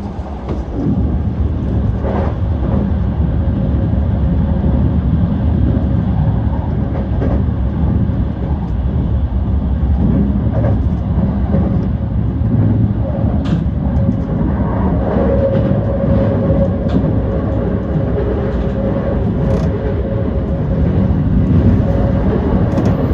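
Yokosuka Line E235-1000 series electric train running along the track, heard from inside the leading car: a steady rumble of wheels on rail with scattered clicks, joined about halfway through by a steady whine.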